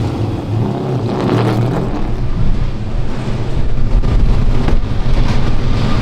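A car engine running steadily, with wind noise on the microphone.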